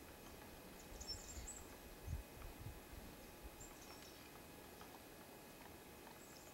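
Faint, high, short chirps of small birds, in three brief clusters, with a couple of low dull bumps about two seconds in.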